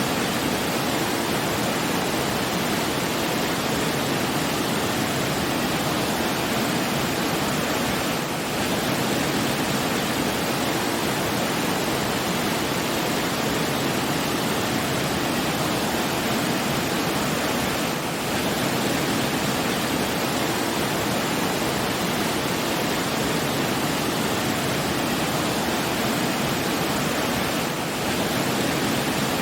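Steady rushing water, an even full-range hiss and rumble like a waterfall, with a slight dip in level about every ten seconds.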